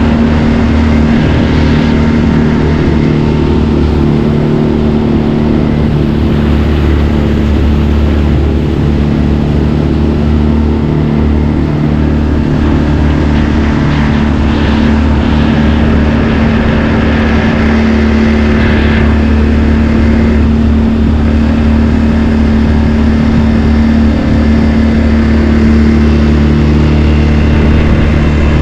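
A boat's outboard motor running steadily at high speed, the boat up on the plane, over a constant rush of noise.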